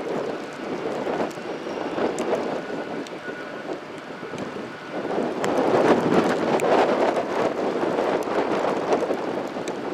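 Wind buffeting the microphone in blowing rain, swelling in a stronger gust about five seconds in.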